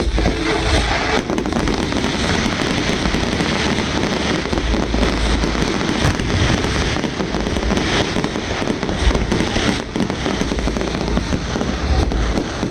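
Fireworks display: a dense, continuous barrage of shell bursts and crackling, with deep booms coming in waves.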